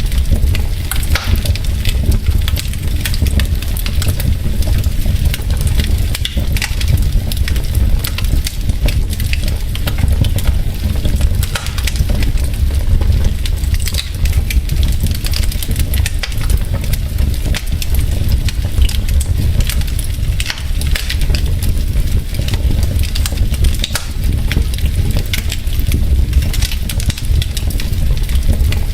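Wood logs burning in a fireplace, crackling with many small irregular pops over a low steady rumble of the fire.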